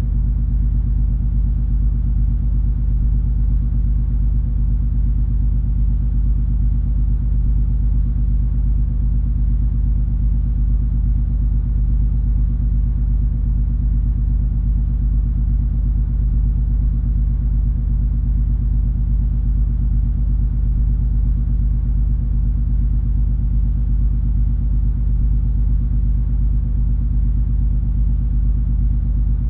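Steady, deep drone of the MS Color Magic cruise ferry's engines and machinery heard aboard, a constant low hum with several steady tones in it.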